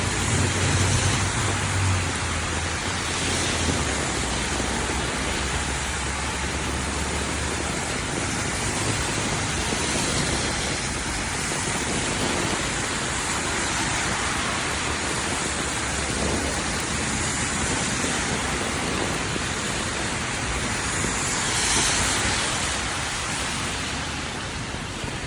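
Steady heavy rain with a low thunder rumble dying away over the first few seconds. A brief swell of hiss comes near the end.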